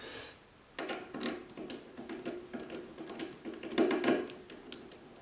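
Irregular clicks and scraping of screws being fitted and turned into the metal chassis of a Marshall JVM410 guitar amp, busiest around four seconds in.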